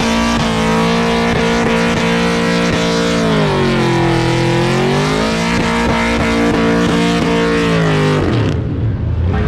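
A ute's engine held at high revs in a burnout, its rear tyres spinning in heavy smoke. About halfway through the revs dip and climb back up, then the sound cuts off abruptly near the end.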